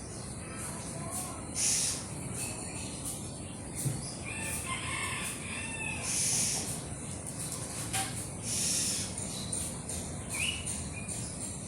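Outdoor background with a few short bird calls, and several brief high rustling hisses about every two to three seconds.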